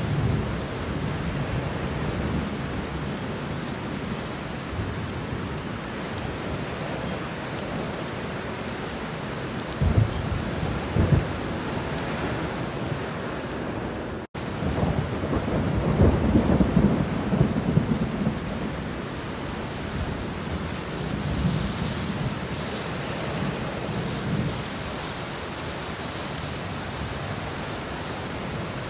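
Homemade thunderstorm sound effect: a steady hiss of rain with thunder. Two short sharp thunder cracks come about ten seconds in. The sound cuts out for an instant near the middle, followed at once by the loudest long rumble, and fainter rumbles come later.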